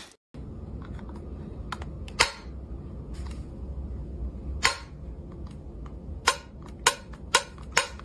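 Sharp clicks or taps at irregular intervals, coming more often near the end, over a low steady hum.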